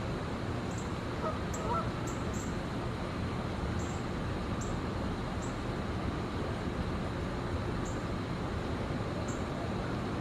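Steady traffic hum with distant bird calls over it: a few faint honk-like calls between one and two seconds in, and short, high chirps repeating irregularly every second or so.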